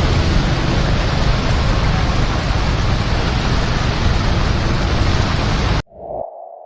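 Heavy rain, a steady dense hiss with a deep rumble under it, that cuts off suddenly near the end. A single ping-like tone follows and fades away.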